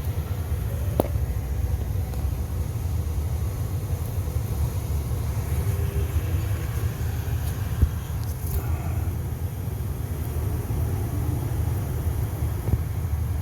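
Steady low rumble of machinery or an engine running nearby, with a couple of light clicks.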